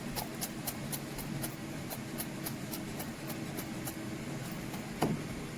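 A knife chopping fresh coriander leaves on a cutting board, in quick light taps about four a second, with one harder knock near the end. A steady low hum runs underneath.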